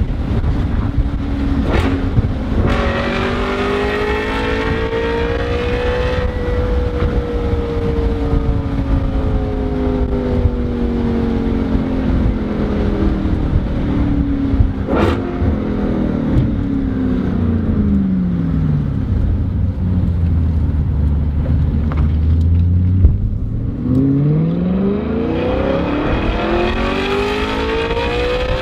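Audi RS5 (B8) 4.2-litre V8 through an Armytrix valved stainless cat-back exhaust. The engine accelerates about three seconds in, the exhaust note falls slowly as the revs drop over the next dozen seconds, and it accelerates again near the end, over a steady low road rumble.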